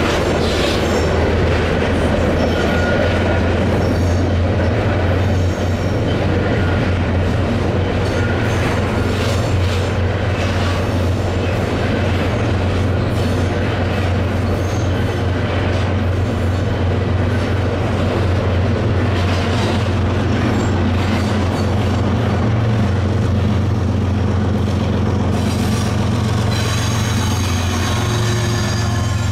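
Grain train of covered hopper cars rolling past: a steady heavy rumble of steel wheels with clicks over the rail joints and intermittent wheel squeal on the curve. Near the end, a distributed-power diesel locomotive comes past running.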